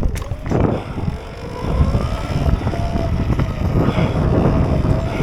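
Surron Ultra Bee electric dirt bike pulling away, its motor whine rising in pitch and then holding steady, under heavy wind noise on the microphone.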